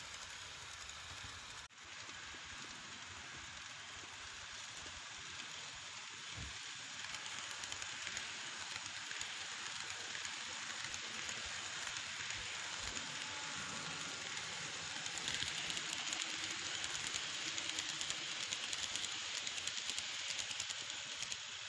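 N-gauge model train running on its track: a steady, hissy rattle of the small motor and wheels on the rails, getting somewhat louder about fifteen seconds in.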